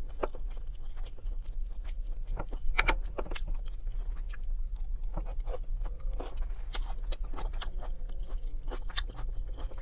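Close-up chewing and mouth sounds of a person eating, with scattered short clicks and smacks, a metal fork scraping the plastic takeout container near the start, and a green bean bitten and chewed. A steady low hum runs underneath.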